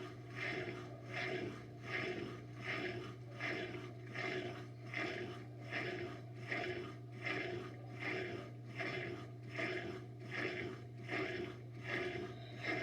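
Washing machine running, a rhythmic rubbing swish repeating a little under twice a second over a steady low hum.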